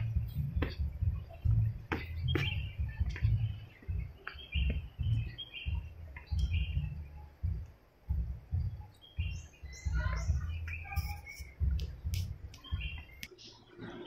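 Small birds chirping and tweeting repeatedly, with a falling run of calls about ten seconds in, over irregular low thumps and a few sharp clicks.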